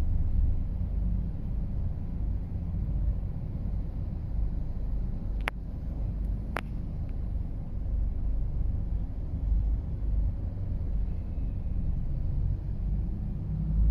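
Low, steady rumble of road traffic, with two sharp clicks about a second apart near the middle.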